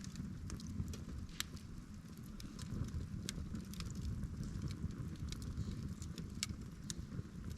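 Wood campfire burning, crackling with scattered sharp pops over a low steady rumble.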